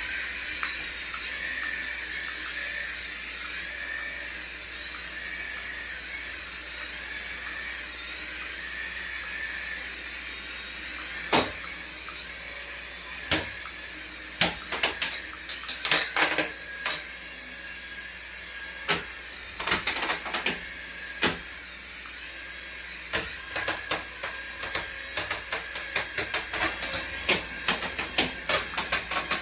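Small electric motor of a remote-control toy whining at high pitch, its tone wavering slowly up and down, with sharp clicks and taps joining from the middle onward and coming more often near the end.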